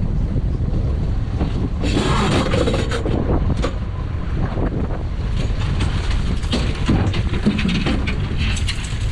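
Strong wind buffeting the microphone on a small boat at sea, with water slapping against the hull and irregular knocks.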